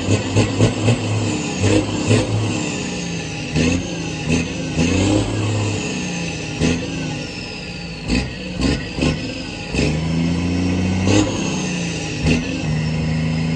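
Detroit Diesel Series 60 inline-six diesel in a Freightliner Cascadia glider, running through a straight-pipe exhaust and revved up and down repeatedly, with sharp pops in the exhaust note. A high whistle falls in pitch as the revs drop away.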